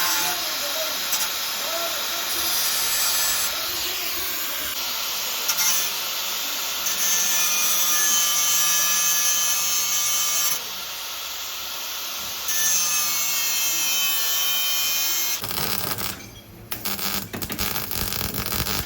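Power-tool noise: a steady whine over hiss. It changes abruptly several times, and near the end it turns into choppy, rattling running.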